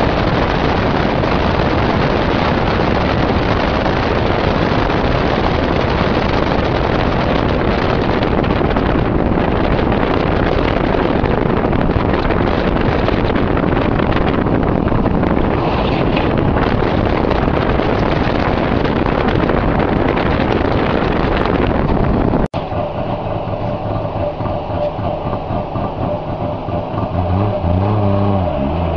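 Wartburg 353's three-cylinder two-stroke engine, recorded from outside the moving car. For most of the time it is buried under a loud, even rush of wind and tyre noise at speed. About two-thirds through, after an abrupt cut, the engine note comes through clearly at low speed, and near the end its pitch rises as the car accelerates.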